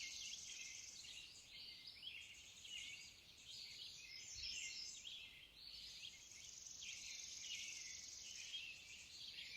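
Faint background birdsong, many short high chirps, over a steady high hiss.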